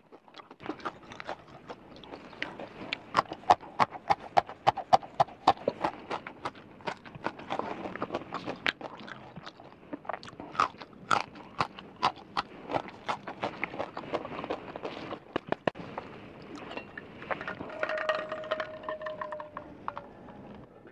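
Close-miked chewing of chewy, spicy Chinese gluten-strip snacks (latiao, que cay): rapid, wet mouth smacks and clicks, several a second. Near the end there is a short hummed tone.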